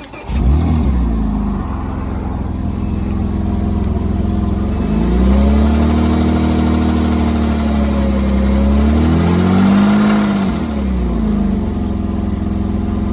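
Porsche Boxster 3.2-litre flat-six catching just after the start and settling to idle, then revved up twice through the middle and dropping back to idle, with a knock from inside the engine. The knock comes from internal damage: metal had gone through the oil pump.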